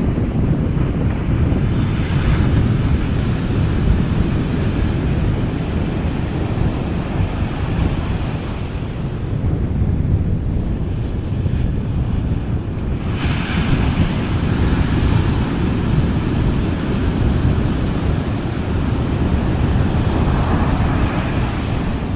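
Gentle sea waves on a beach: a steady low rumble of surf, with a brighter hiss of water washing in three times, about 2, 13 and 20 seconds in. Wind rumbles on the microphone under it.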